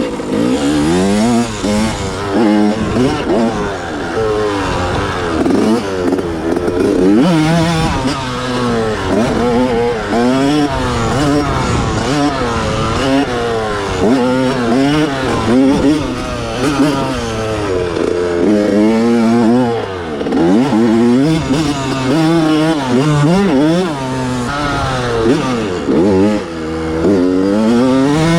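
1987 Honda CR125's single-cylinder two-stroke engine revving up and dropping back again and again, its pitch climbing and falling every second or two.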